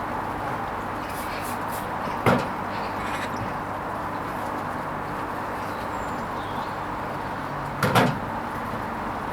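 Hoover Vision HVP16 washing machine running a Silks 30 cycle: a steady hum with two short knocks, about two seconds in and near the end.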